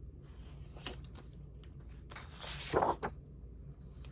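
Sheets of scrapbook paper rustling and sliding against each other as they are handled, with a few short swishes and a longer, louder one about two and a half seconds in.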